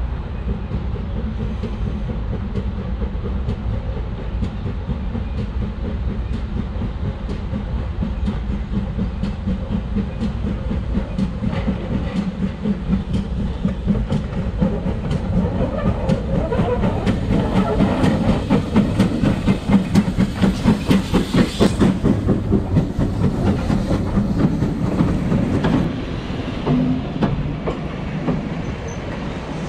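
Train running on the rails with a clickety-clack of wheels. A fast rhythmic beat of about four strokes a second builds to its loudest about two-thirds of the way through, then eases.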